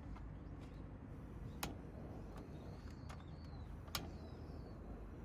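Wood campfire crackling: a few sharp pops, two of them loud, over a low steady rumble, with faint high bird chirps a little past the middle.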